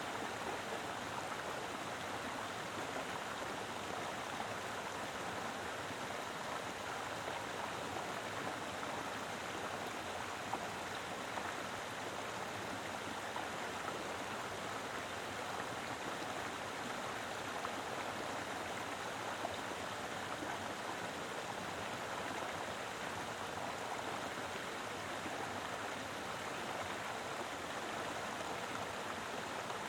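Mountain river flowing over rocks: a steady, even rush of water with no pauses.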